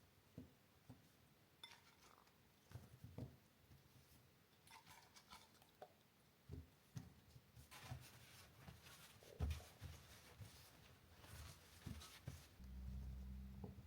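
Scattered light clicks and knocks of kitchen items being handled, then near the end an air fryer switches on and its fan runs with a steady low hum.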